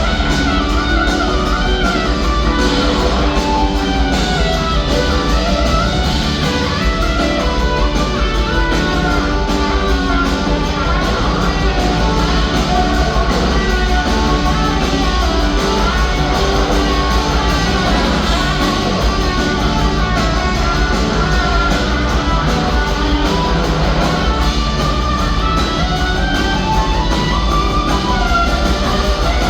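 A live rock band playing, with electric guitar to the fore.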